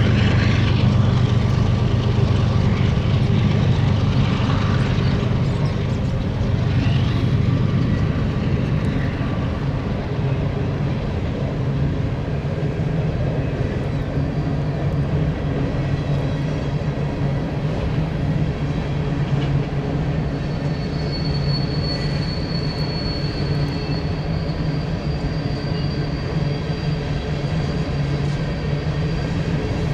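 Diesel freight locomotives running with a steady low drone as a freight train goes by. The drone's pitch shifts about ten seconds in, and a thin high squeal comes in about twenty seconds in.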